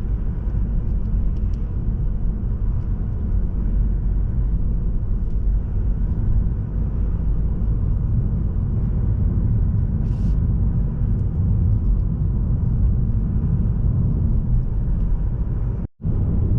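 Steady low rumble of a Mazda3 sedan driving on the road, mostly tyre and road noise with its engine underneath. The sound drops out suddenly for a split second near the end.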